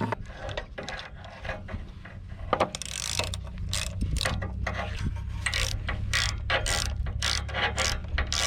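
Ratchet wrench clicking in short runs of strokes as a spark plug is screwed back into the mower's engine. A low steady hum runs underneath.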